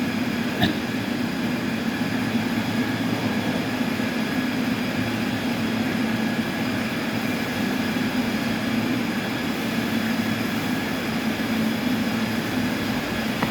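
Large sawmill machinery running steadily: a constant hum under a wide mechanical hiss, with one sharp knock near the start.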